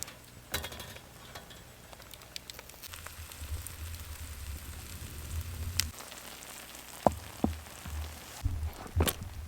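Food sizzling in a cast-iron frying pan over a campfire, a faint steady hiss broken by scattered sharp crackles, with a few louder knocks near the end.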